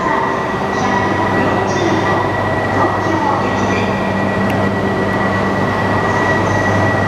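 Shinkansen train moving slowly along an underground station platform, with a continuous rumble, a steady low hum and a steady high tone, echoing in the enclosed hall.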